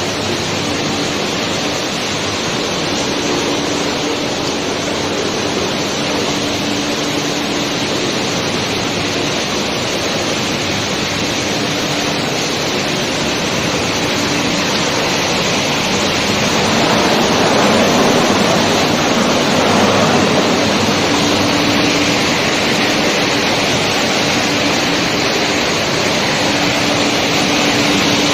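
PET bottle recycling line running: steady machine noise mixed with water, with a low steady hum that drops in and out. It grows louder for a few seconds about two-thirds of the way through.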